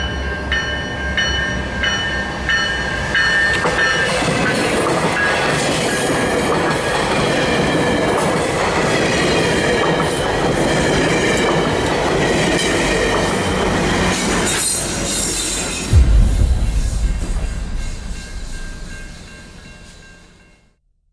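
Passenger train passing, with a bell ringing in quick, even strokes for the first few seconds, then a steady rush of rail and wheel noise. A sudden heavy low thump comes about three-quarters of the way through, the loudest moment, before the sound fades out.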